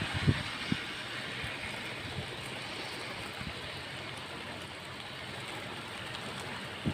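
Storm wind blowing steadily across the microphone, with a few low buffeting thumps near the start and again at the end.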